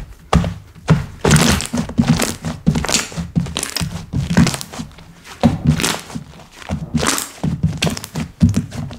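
Slime being squeezed and pressed by hand, an irregular run of squishes and low thuds with short clicks and pops.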